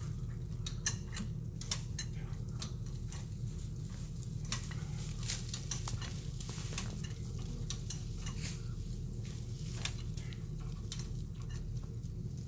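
Scattered, irregular metal clicks and clinks from a high-lift jack being worked as a winch on the recovery wire, over a steady low rumble.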